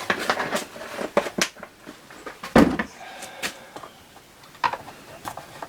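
Clicks and knocks of a chainsaw and fuel can being handled during refuelling, with one heavier thump about two and a half seconds in.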